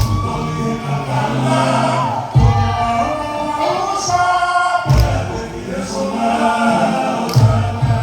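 A group of voices singing a Polynesian show song over music, with a deep beat about every two and a half seconds.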